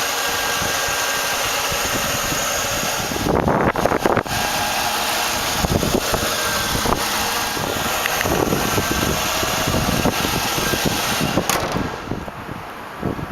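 A 2000 Lincoln Town Car's 4.6-litre V8 idling steadily under the open hood, with a burst of louder knocks and handling noise a few seconds in and a sharp click near the end. The engine sound drops away shortly before the end.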